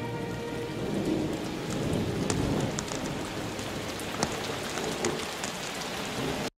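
Steady rain falling on a road and the ground around it, with scattered single drops ticking out sharply above the even hiss.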